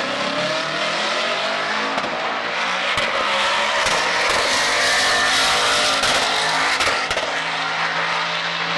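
Twin-turbo 427 LSX V8 of a drag-race Cadillac Escalade at full throttle down the drag strip, its pitch climbing through the gears, with several sharp pops and bangs from the exhaust.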